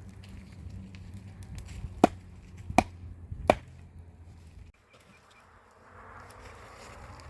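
Three sharp knocks about three-quarters of a second apart over a low steady hum; the sound drops away suddenly about two-thirds of the way through.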